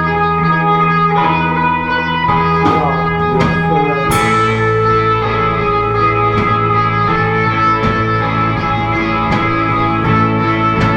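Live indie rock band playing an instrumental passage: electric guitars ringing out sustained chords over bass guitar. There are sparse cymbal hits, and a big crash about four seconds in as the chord changes.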